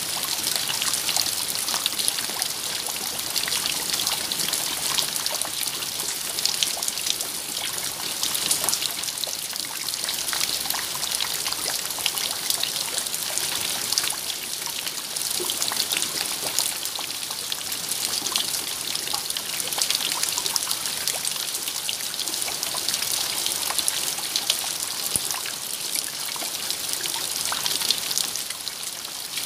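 Steady rain with a dense patter of drops and a trickle of running water.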